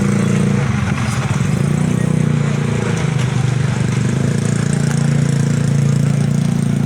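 A vehicle engine idling steadily, loud and close.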